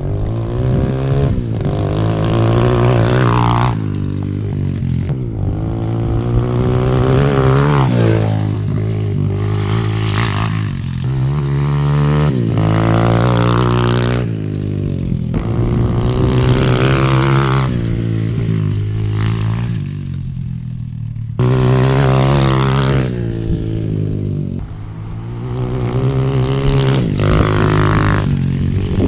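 Apollo 125cc dirt bike's single-cylinder four-stroke engine being ridden hard, its pitch climbing and dropping several times with sudden changes as it accelerates and backs off, running on a newly fitted racing CDI.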